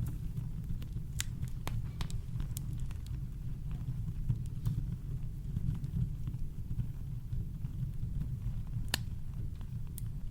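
Campfire crackling: scattered sharp pops and snaps, the loudest about nine seconds in, over a steady low rumble.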